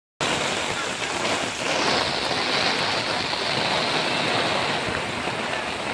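Heavy rain pouring down, a dense steady hiss that starts abruptly.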